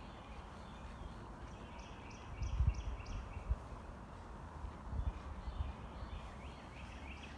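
A songbird singing two runs of quick, evenly repeated chirps, over footsteps crunching on a crushed-stone trail and a low rumble of wind on the microphone.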